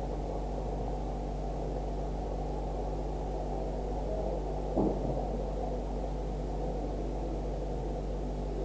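Steady low hum over even background noise, with a brief knock about five seconds in.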